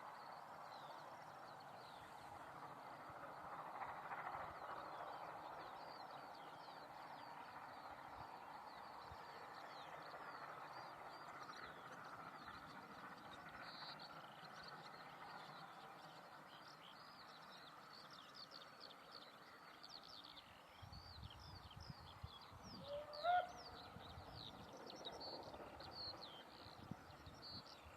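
Quiet outdoor ambience of many small birds chirping over a faint steady hiss. Low rumbling comes in about three-quarters of the way through, and one short rising call, the loudest sound, follows shortly after.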